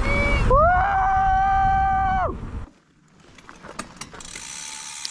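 Mountain bike disc brake squealing: one steady high tone that rises as it catches and drops away after about two seconds as the bike slows, over the rumble of the tyres on dirt, which stops with it. After that comes faint, quick ticking from the rear hub's freewheel ratchet.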